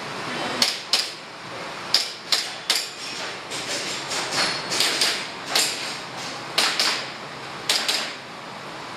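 Airsoft pistol firing during a practical-shooting course of fire: about a dozen sharp cracks at uneven spacing, several of them fired as quick pairs.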